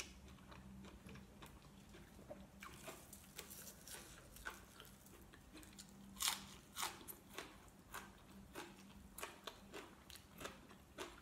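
Close-up mouth sounds of a person biting and chewing raw leafy greens: scattered crisp crunches, loudest about six seconds in.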